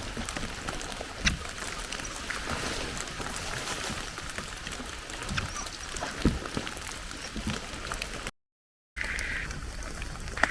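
Steady rain falling on a tent's rain fly: a continuous patter with many sharp individual drop ticks. Near the end it cuts off abruptly and a different steady sound follows.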